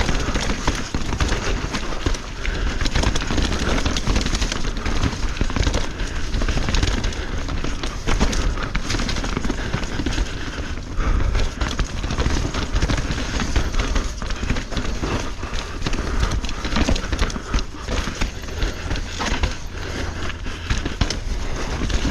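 Mountain bike riding over a trail, heard from a rider-mounted action camera: steady wind rumble on the microphone with the tyres on dirt and rock and a constant rattle of rapid clicks and knocks from the bike.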